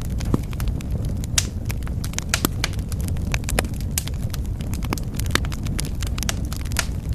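Wood fire crackling in a fireplace: irregular sharp pops and snaps over a steady low rumble of flame.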